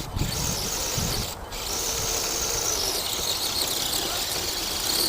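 Axial SCX10 radio-controlled crawler truck's electric motor and gearbox whining steadily under throttle, with a few low knocks in the first second.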